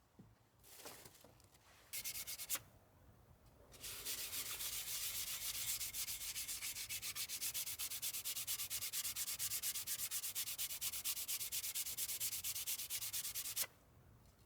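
Sandpaper rubbed back and forth over wood in fast, even strokes, after a brief first pass about 2 seconds in. It stops suddenly near the end.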